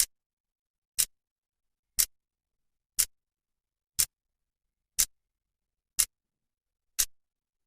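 Clock second hand ticking, one sharp click a second at an even beat.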